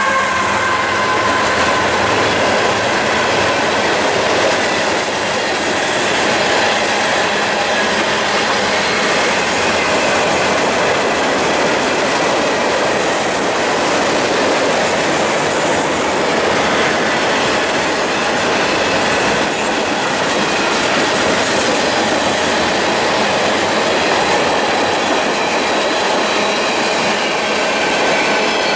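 A train rolling past on the tracks, its wheels clicking over rail joints with a steady rumble. A high squeal falls slightly in pitch at the start.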